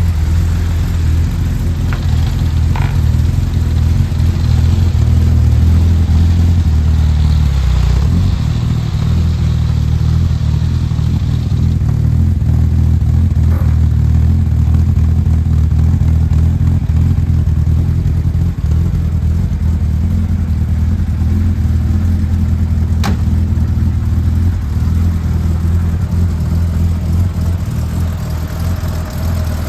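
1969 Jaguar E-Type's 4.2-litre straight-six engine idling steadily while it warms up from a cold start.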